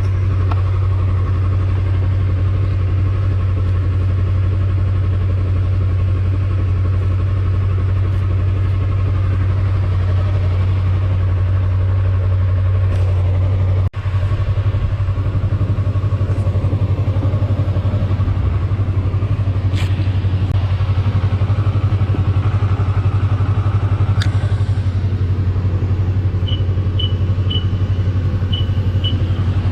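Yamaha YZF-R3's parallel-twin engine idling steadily through its stock exhaust.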